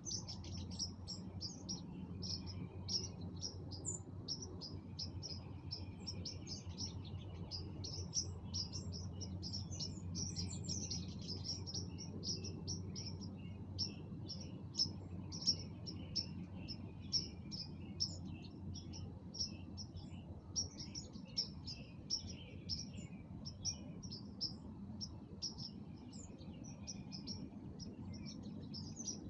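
A dense chorus of birds at dusk: many short, high chirps, rapid and overlapping. A steady low hum runs underneath.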